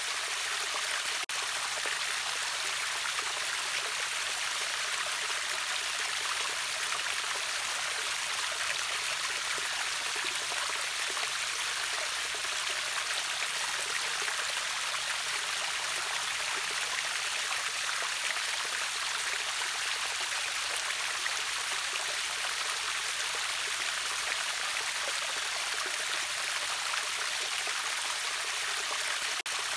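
River water flowing over a small waterfall: a steady, even rush of splashing water, mostly bright and hissy with little deep rumble.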